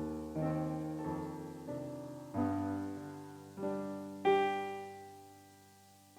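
Solo keyboard improvisation played with a piano sound: slow chords and low bass notes struck one after another and left to ring. The last chord, about four seconds in, is the loudest and fades away almost to nothing.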